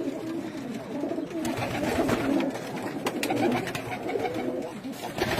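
Several domestic pigeons cooing at once, with overlapping low, wavering coos in a small enclosed space.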